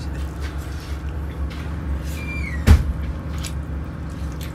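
Passenger train running with a steady low rumble in the cabin. About two and a half seconds in, a short squeak slides down in pitch and ends in one loud bang.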